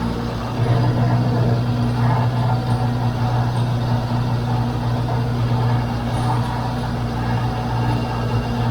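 John Deere 410 backhoe loader's diesel engine running steadily with a deep hum, getting louder about half a second in.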